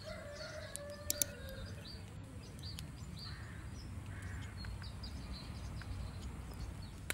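Wild birds chirping in short scattered calls over a steady low rumble, with a drawn-out call in the first second and a half and a couple of sharp crackles from the wood campfire about a second in.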